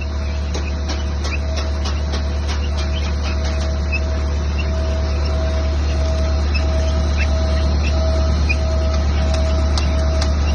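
Mortar pump running: a steady low motor hum with a regular pulsing tone about one and a half times a second, and scattered light clicks and squeaks.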